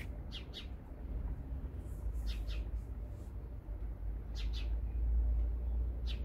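Quail calling: a short two- or three-note high call repeated about every two seconds, four times, over a steady low rumble.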